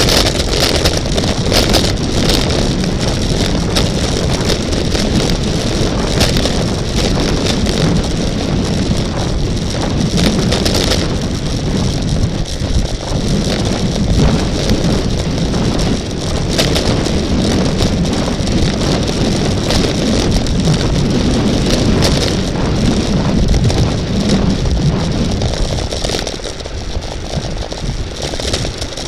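Steady wind rushing over the microphone, with rumble and tyre noise from a moving road bicycle, interrupted now and then by short clatters.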